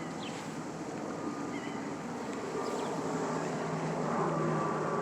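Steady distant engine rumble with a low hum, growing slightly louder toward the end, with a few faint short bird chirps over it.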